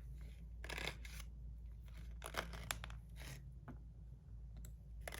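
Handling noise of tiny springs and small fidget-slider parts being packed away: short rustles and light clicks, on and off.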